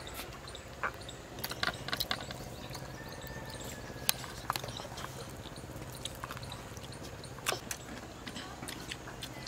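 Crunching bites and chewing on crispy batter-fried chicken drumsticks: scattered sharp crunches and crackles from the crisp coating over a faint steady hum.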